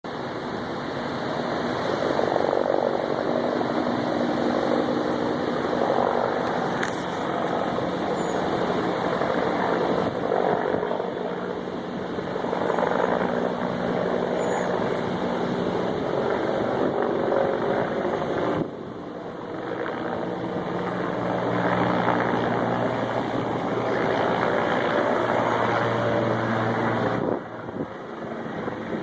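Helicopter circling overhead, its rotor and engine giving a steady drone that swells and eases; the sound dips briefly about two-thirds of the way through and drops again near the end.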